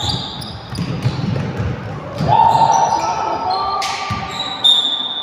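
Basketball bouncing on the court during play, with repeated thuds and short, high squeaks scattered among them.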